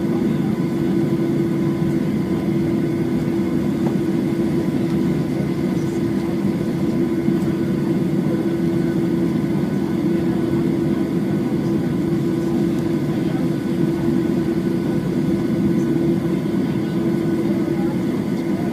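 Steady cabin drone inside a Boeing 737-8 airliner, its CFM LEAP-1B engines running with a constant hum and no change in pitch or loudness.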